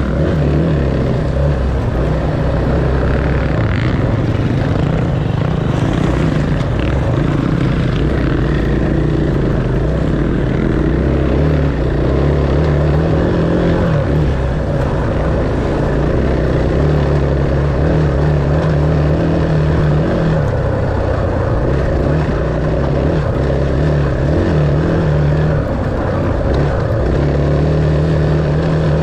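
Dirt bike engine running at fairly steady revs, its pitch wavering a little up and down.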